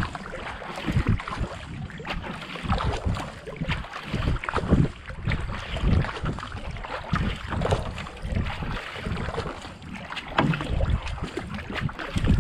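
Kayak paddle strokes splashing in the water in a repeating rhythm, with wind buffeting the microphone.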